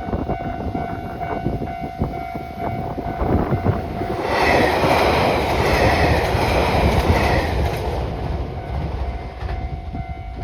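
Level crossing alarm bell ringing in steady repeated strokes, drowned out about four seconds in by a train rolling through the crossing with loud wheel and rail noise for about four seconds. The bell is heard again as the train clears.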